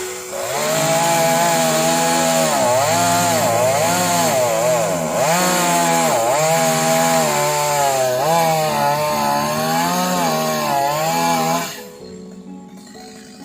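Two-stroke chainsaw cutting into a tree trunk at high revs, its engine pitch repeatedly dipping and recovering as the chain bites into the wood, then stopping abruptly near the end.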